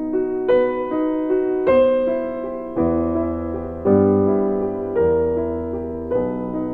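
Background piano music: a slow, gentle melody of single struck notes over sustained chords.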